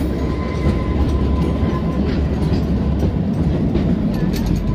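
Kalka–Shimla narrow-gauge toy train running: a steady rumble of coach wheels on the rails, with scattered clicks from the track and a faint steady whine.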